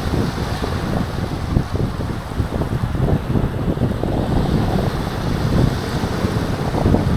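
Wind buffeting the microphone in heavy, uneven low gusts, over the wash of waves on a pebble beach.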